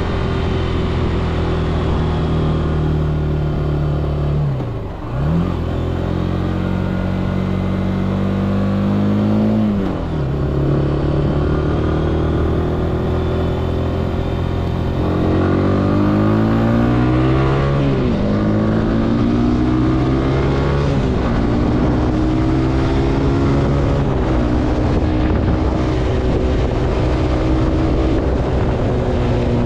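Zontes C125 125cc motorcycle engine pulling along the road, the revs climbing and dropping at each gear change. There is a sharp dip and recovery about five seconds in, then a run of upshifts in the second half, each marked by a quick fall in pitch.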